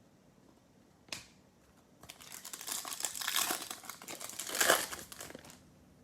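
Plastic foil wrapper of a Panini Select football card pack being torn open and crinkled by hand: a short click about a second in, then a few seconds of dense crinkling, loudest near the end.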